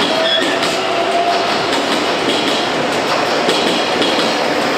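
JR Kyushu 813 series electric train running past a station platform, its wheels clattering over the rail joints in a steady run of clicks.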